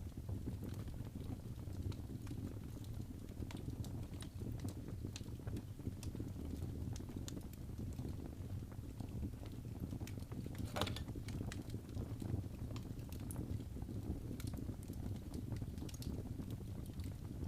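Fire burning in a fireplace, crackling: scattered small crackles and pops over a steady low rumble, with one sharper pop about eleven seconds in.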